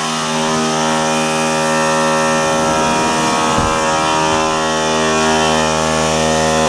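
Small portable air compressor running with a steady whine while its blow-off (safety relief) valve hisses open. The pressure switch has failed to shut the compressor off at 100 psi, so the tank has over-pressured and the relief valve is venting.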